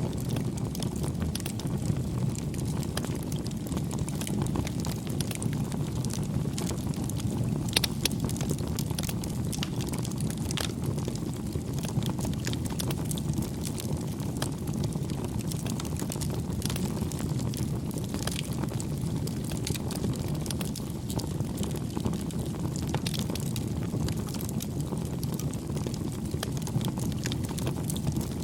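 Campfire burning: a steady low rush of flames with scattered crackles and pops, two sharper pops about eight and eleven seconds in.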